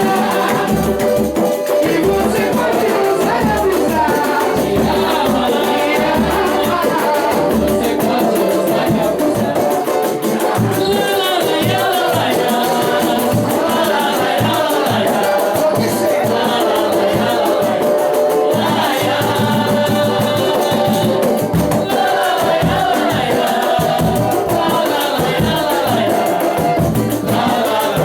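Live samba band playing, with a shaker rattling over low drum beats and voices singing along.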